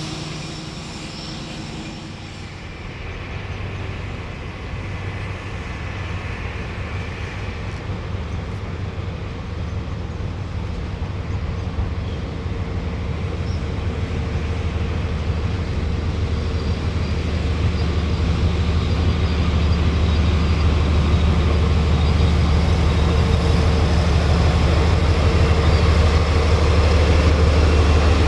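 A train approaching, its low engine hum and running noise growing steadily louder.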